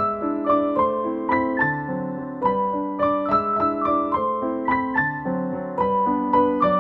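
Background music: gentle solo piano playing a flowing melody of struck notes over sustained chords.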